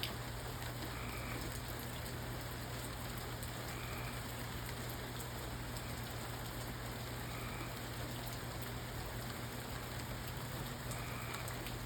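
Steady rain falling, an even hiss with no thunder, over a steady low hum.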